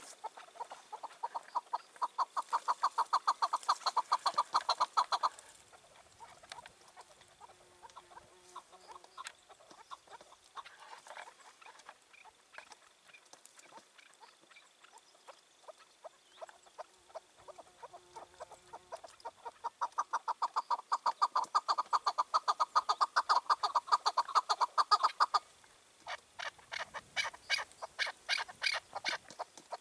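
Chukar partridge calling: long runs of rapid, evenly repeated chuck notes, one run in the first five seconds and another from about twenty seconds in, with softer scattered notes in between and a new run starting near the end.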